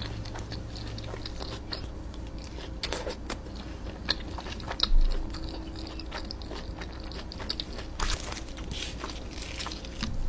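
Close-miked eating: a person chewing and taking crunchy bites, with many small wet clicks and crackles of the mouth. About halfway through there is a single louder dull thump.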